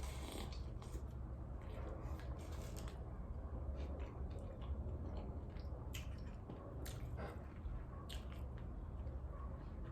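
Close-miked chewing of birria tacos: wet, squishy mouth sounds with scattered small crunches and clicks, over a steady low hum.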